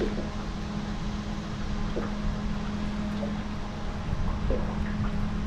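A small electric motor on a fishing boat hums at one steady pitch, over low rumbling wind and water noise.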